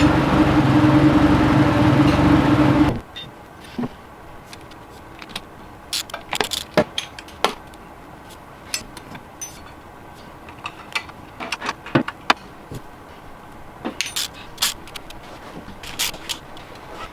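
Turbocharged engine of a Golf Mk1 running steadily, then shut off abruptly about three seconds in. Afterwards come scattered small clicks and knocks.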